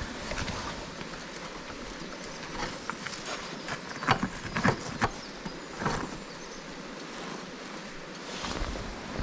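Several sharp knocks and clatters, the loudest a few seconds in, over a steady rushing background noise.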